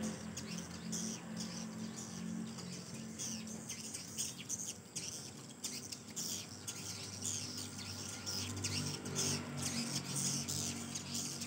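Swiftlets twittering: dense, rapid high chirps running on without a break, over a low steady hum.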